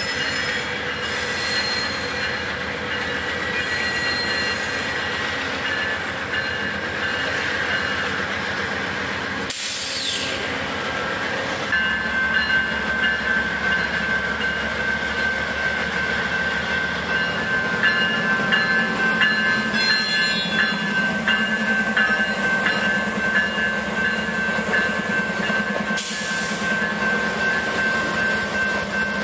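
Amtrak GE P40DC diesel locomotives pulling a train out at low speed, with steel wheels squealing in a steady high-pitched tone. About twelve seconds in the sound gets louder and a low diesel throb comes in as the locomotives pass close by.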